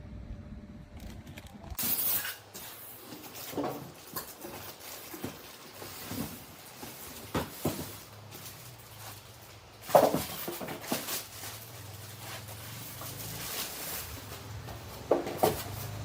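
Irregular clicks and knocks of a handheld dust-mite vacuum cleaner's plastic parts being handled. A low motor hum comes in during the second half.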